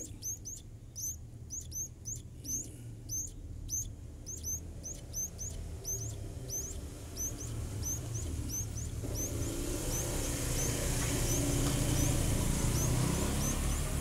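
A small bird's short, high chirps, repeated steadily about two to three times a second. From about halfway through, a rushing noise swells underneath them.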